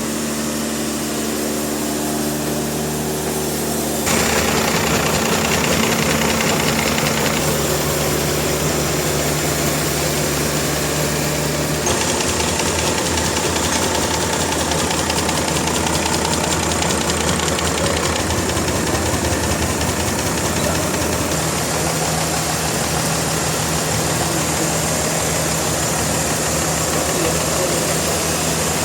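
Sawmill machinery running with a steady engine drone and humming tones. The sound changes abruptly about four, seven and twelve seconds in.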